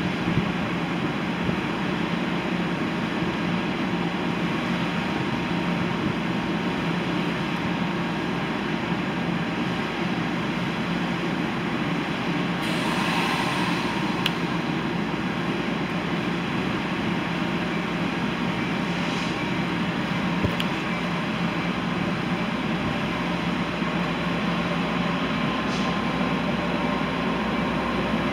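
Train running with a steady rumble and a low, even hum, with a brief hiss about halfway through.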